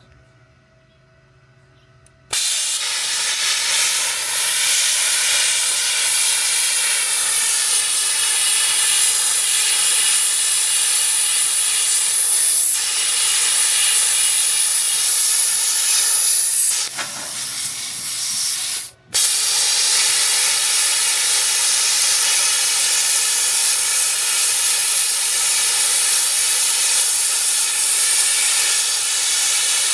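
ArcCaptain Cut 55MP plasma cutter cutting half-inch steel: a loud, steady hiss from the plasma arc and air jet starts about two seconds in. It falls away and cuts out briefly about two-thirds of the way through, then starts again and carries on.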